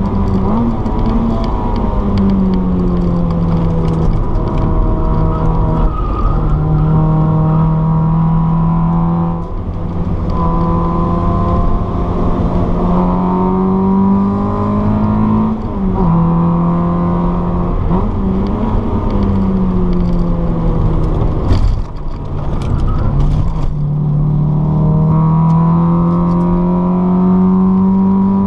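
Car engine heard from inside the cabin, driven hard on a race track. Its pitch climbs under acceleration and drops sharply at each gear change, several times over. A few sharp knocks come about three-quarters of the way through.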